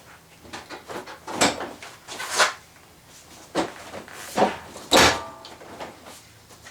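Suzuki Vinson 500 ATV's seat and plastic body parts being handled and fitted: a series of short knocks and clatters, the loudest about five seconds in.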